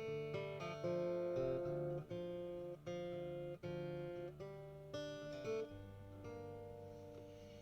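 Acoustic guitar playing a chord progression, with a new chord struck about every half second to a second. About six seconds in, the last chord is left to ring and fade.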